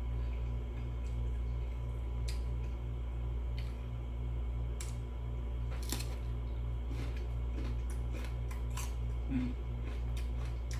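Close-up eating sounds: scattered crisp clicks and small crunches from a person eating, which come thicker after about six seconds, over a steady low hum.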